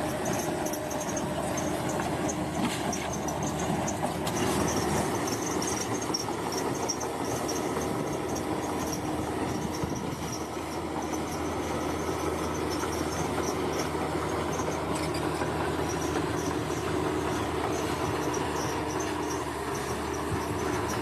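Bulldozer's diesel engine running steadily with the clatter of its tracks, while insects chirp in a high pulsing trill.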